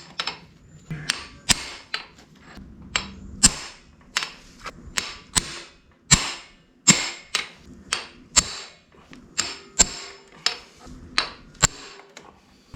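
Hammer striking metal in a long run of sharp, uneven taps, about two a second, working stuck parts loose on a motorcycle engine.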